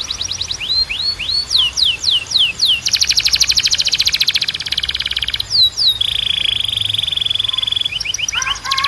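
Domestic canary singing its song in tours of repeated syllables. First comes a run of sweeping notes, then about three seconds in a fast, even trill lasting a couple of seconds, then a lower trill and a few quick notes. Near the end a set of steady whistled notes begins.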